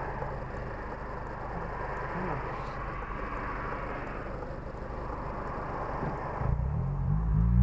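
Honda Civic Si's K20Z3 2.0-litre four-cylinder idling at a stop, heard from the cabin with a steady wash of passing traffic. About six and a half seconds in, the engine note jumps louder and begins to climb in pitch as the car pulls away.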